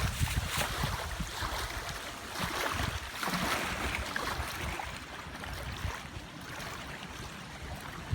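Wind blowing across the microphone with waves lapping on a lake, a steady rushing noise that eases after the first couple of seconds.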